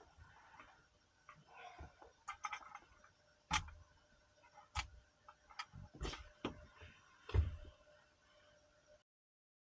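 Irregular clicks and knocks of objects being handled in a small enclosed space, with a few heavier thumps, cutting off to silence near the end.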